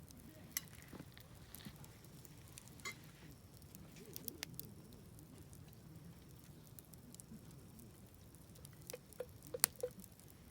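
Wood campfire crackling, with scattered sharp pops and a quick run of louder pops near the end, over a low steady rumble.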